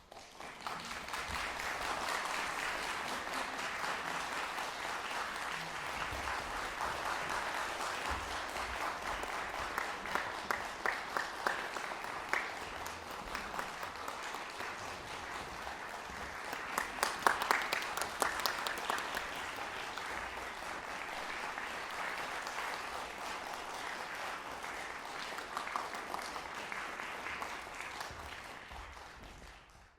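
Audience applauding after a live chamber-music performance: dense, steady clapping that starts suddenly out of silence, with a few louder single claps standing out around the middle, and dying away at the end.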